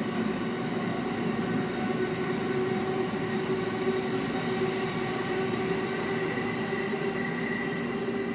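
JR East E217 series electric train running at steady speed through a tunnel, heard from the cab at the coupled end: steady rail and running noise with several steady whining tones over it.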